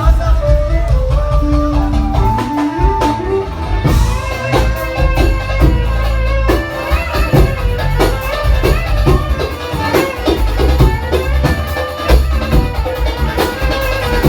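Live band playing the instrumental introduction of a Turkish pop song: a melodic line over a steady deep bass and a regular percussion beat, with no singing.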